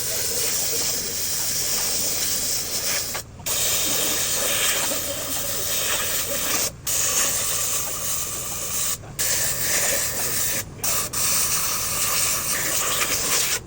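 A pressurised spray hissing in long continuous bursts, cut off briefly four times as if a trigger is released and pressed again.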